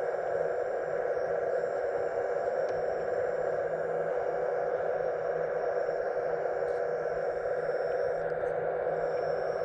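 Steady electric hum and whine of a scale RC model's hydraulic pump running without a break.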